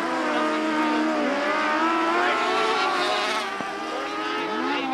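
Several small open-wheel race cars' engines running together as the cars lap the track, their pitches rising and falling as they accelerate and lift.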